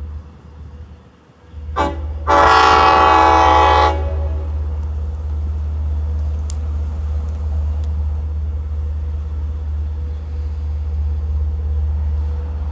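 Diesel train horn: a short toot, then a long loud blast lasting about a second and a half, followed by the steady low rumble of the locomotive.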